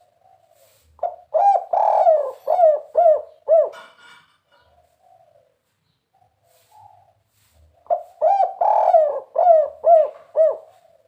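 Spotted dove (tekukur) singing its 'kuk 3' song. It gives two loud phrases of six or seven quick, rolling coos each, about a second in and again near the end, with soft cooing in the pause between.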